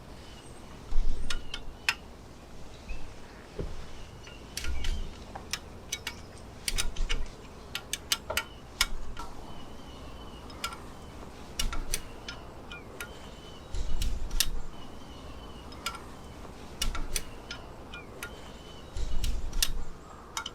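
Irregular sharp metallic clicks and clinks of hand wrenches on a Detroit Diesel 4-53 engine's fittings as the injector lines are taken off, with a few low thumps between them.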